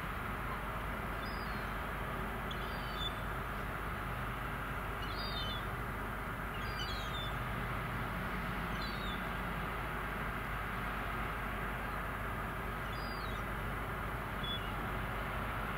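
Short, high bird calls, about seven quick falling chirps spread through, over a steady low drone and hiss.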